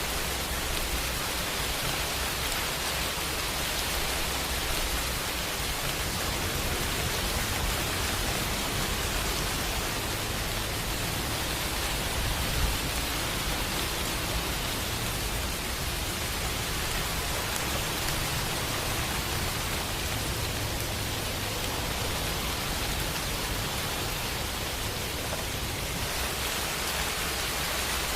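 Steady rain falling, an even hiss with no breaks, over a low rumble underneath.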